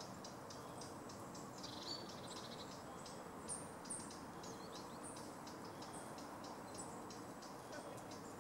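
Faint, steady insect chirping, several short pulses a second, over a low background hum. A few brief high bird notes and a short trill are heard, the loudest about two and four seconds in.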